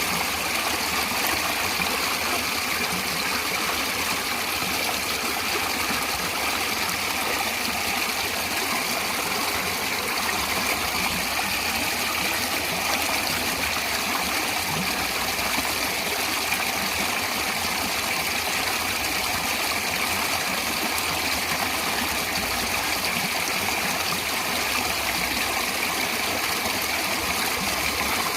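Natural running water flowing steadily, an even rush with no breaks or changes.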